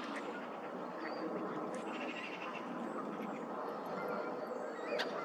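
A few short bird calls, one brief and sharp near the end, over a steady background rush.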